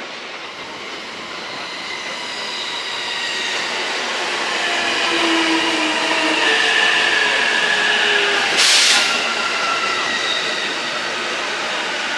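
Electric Joban Line train running past a station platform, growing louder, with whining tones over the rumble of the cars and a short sharp hiss about nine seconds in.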